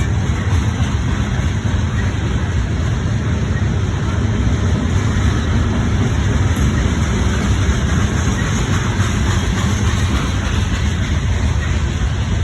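A train passing close by: a steady, loud rolling rumble of wheels on rail that keeps up evenly throughout.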